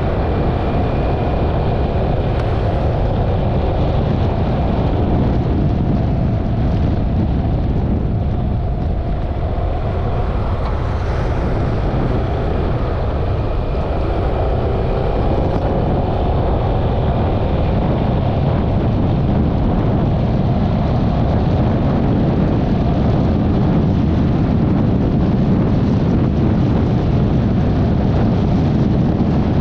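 Yamaha XMAX 300 scooter on the move: steady wind rush over the microphone with the single-cylinder engine running underneath.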